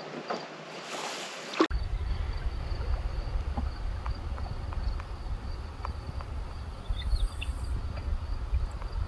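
Kayak paddle swishing through the water in three strokes, then, after an abrupt cut, wind rumbling on the microphone with small drips and ticks. A steady insect chirring sits underneath.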